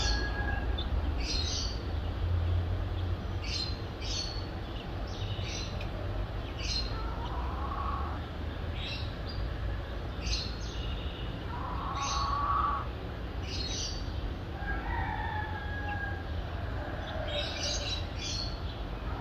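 Birds calling at dawn: short high chirps repeating about once a second, with longer, lower calls every few seconds, over a steady low rumble of distant city traffic.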